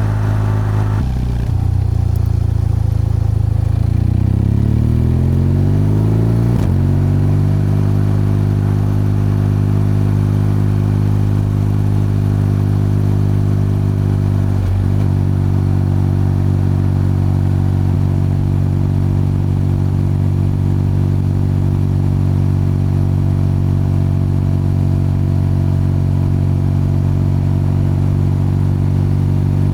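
BMW R12's boxer-twin engine and exhaust while riding. The note drops about a second in, climbs as the bike accelerates for a few seconds, then holds a steady cruising pitch with a brief dip about halfway through.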